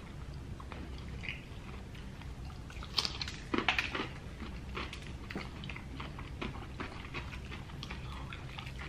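Crispy fried chicken being bitten and chewed close to the microphone: a run of small crunching clicks, loudest for a moment about three seconds in.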